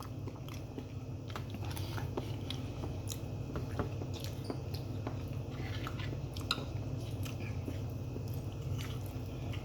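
A person chewing food close to the microphone, with scattered soft mouth clicks.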